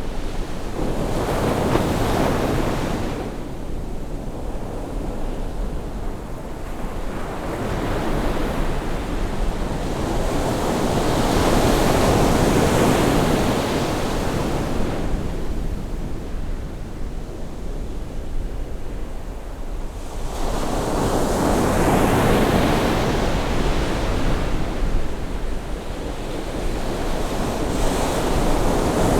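Ocean surf on a rising tide: waves breaking and washing up the shore in slow surges, about four in the span, each swelling over several seconds and then ebbing, over a steady low rumble.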